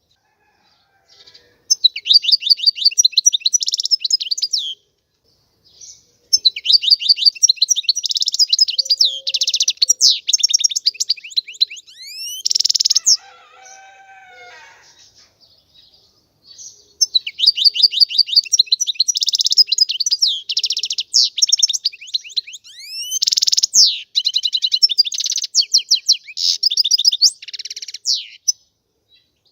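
European goldfinch singing: long phrases of rapid, high twittering and tinkling notes, with short pauses a few seconds in and about halfway through.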